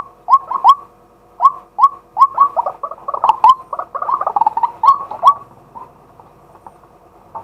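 Male white-breasted waterhen calling: a rapid run of short, harsh notes that crowd together about four seconds in, then break off at about five and a half seconds, leaving only faint scattered notes.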